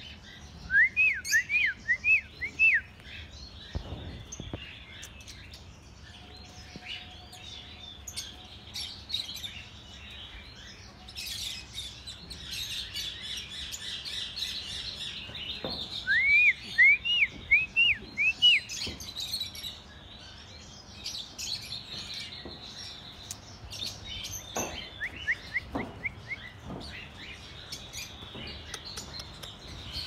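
Aviary birds chirping and chattering. Three times, one bird gives a loud run of five or six quick rising-and-falling whistled notes: near the start, about halfway through, and again a few seconds later.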